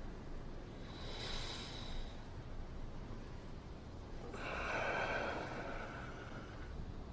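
A person breathing heavily: two long breaths, the second one longer and louder.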